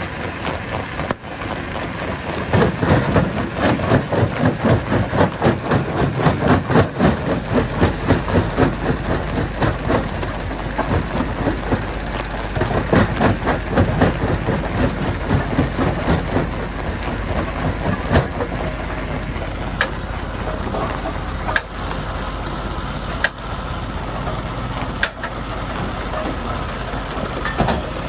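Heavy machinery engine running while rocks tumble and crash. A dense clatter of impacts runs from about two seconds in to about fifteen seconds, then gives way to a steadier engine sound with a few single sharp knocks.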